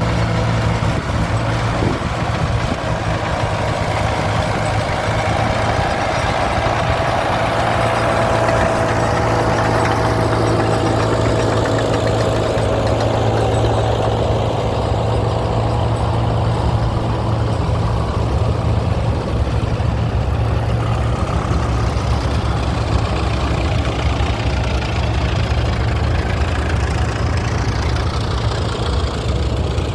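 Vintage tractor engine running steadily at a low, even idle.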